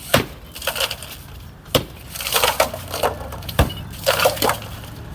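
Demolition of a roadside structure: wood cracking and splintering, with sharp knocks every second or two and crunching, crackling noise in between.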